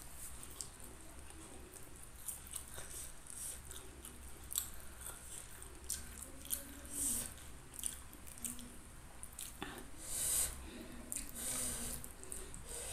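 Close-miked mouth eating sounds: chewing fried chicken and raw basil leaves, with irregular wet clicks and smacks and a few louder smacks in the second half.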